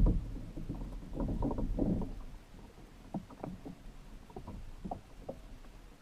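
Water sloshing and splashing around a plastic kayak, with a knock against the hull at the start, a louder stretch of splashing about a second in, then scattered small clicks and splashes.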